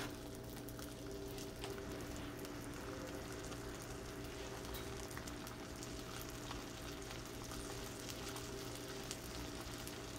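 Ham and buttered bread frying in butter in a nonstick frying pan: a steady, low sizzle with scattered small crackles.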